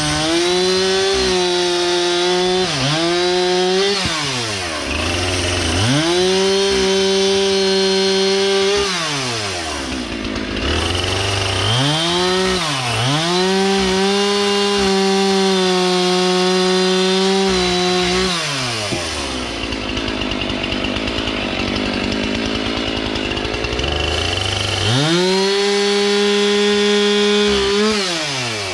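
Husqvarna professional two-stroke chainsaw bucking dry oak logs into firewood rounds. It runs at full throttle through long cuts, drops back to idle between them with one longer idle, and revs up again near the end.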